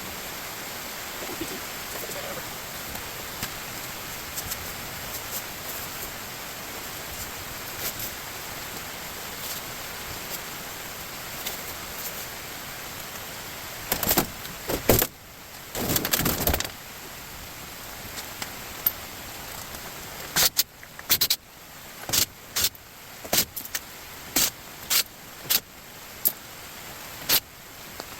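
Pieces of scrap metal being handled: a steady hiss, a rattling burst about halfway through, then a string of sharp metallic clanks and knocks about once a second.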